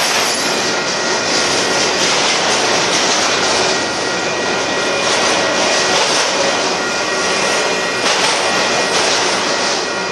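Union Pacific freight train of auto rack cars and boxcars rolling past at speed: a steady, loud rumble and rattle of steel wheels on the rails, with faint steady high-pitched tones over the noise.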